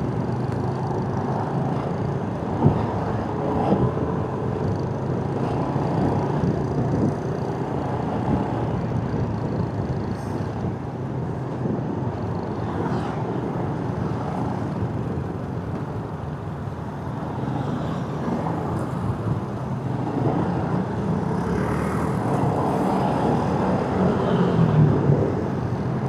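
Motorcycle engine running while riding, under a steady haze of wind and road noise. A single sharp knock about two and a half seconds in.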